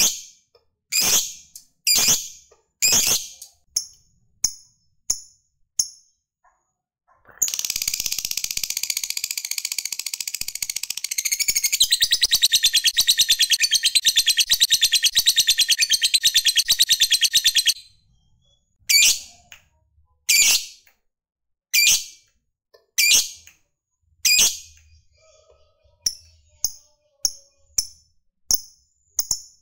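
Lovebird calling: sharp, high chirps about once a second, then a long, rapid chattering trill (the 'ngekek') lasting about ten seconds that grows louder partway through and stops abruptly. After it come more sharp chirps, which come faster near the end.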